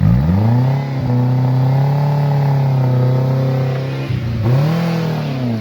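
Off-road 4x4's engine revving hard as it crawls over rocks. It climbs quickly, holds at high revs for several seconds, dips briefly, rises again, then drops off near the end.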